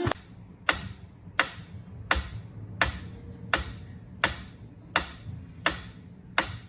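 Sharp clicks repeating at an even pace, about three every two seconds, over a steady low rumble.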